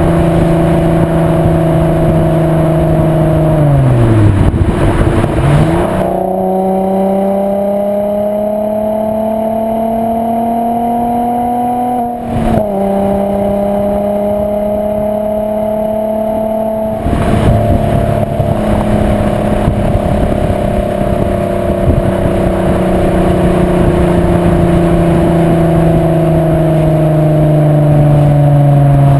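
VW 2.8 VR6 24V engine through a non-resonated Milltek exhaust while driving. The revs sag about four seconds in, pick up again near six seconds and climb steadily, break briefly for a gear change around twelve seconds, then from about seventeen seconds the note turns rougher and louder as the revs slowly fall.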